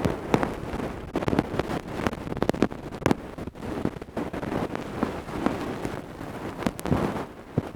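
Ear-cleaning tools scraping and rubbing right at the microphone: an irregular stream of scratchy rustles broken by sharp clicks.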